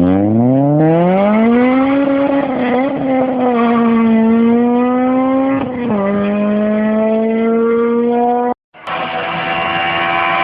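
Honda Integra DC5 Type R's K20A four-cylinder through an aftermarket exhaust, revving up hard over about two seconds and then holding high revs, with a brief drop in pitch about six seconds in like a gear change. Near the end the sound cuts off abruptly, and a second clip of the engine holding steady high revs begins.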